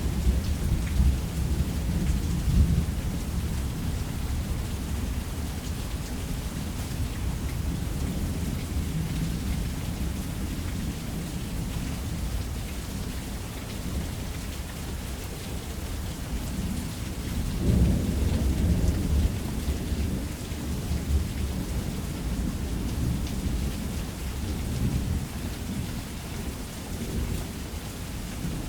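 Heavy rain falling steadily on a roof, with thunder rumbling low underneath. The thunder swells in the first few seconds and again about eighteen seconds in.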